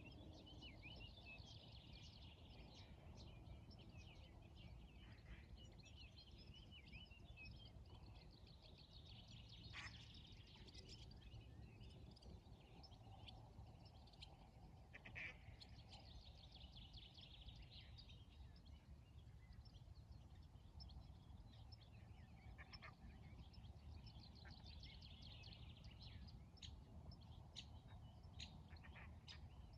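Faint morning birdsong, many small chirps coming in bouts, with a few short louder calls from ducks, over a steady low rumble.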